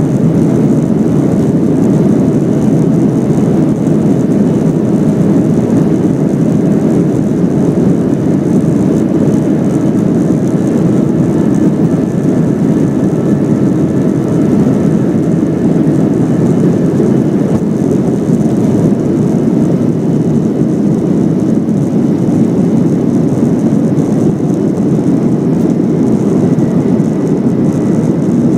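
Boeing 737 jet engines and rushing air at takeoff power, a loud, steady, low rumble that holds unchanged throughout.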